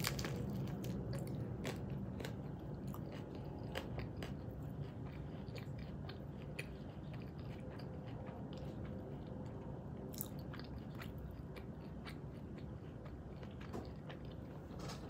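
A person biting into and chewing a crispy rolled tortilla: many small crunching clicks, densest in the first few seconds, then sparser clicks as the chewing goes on.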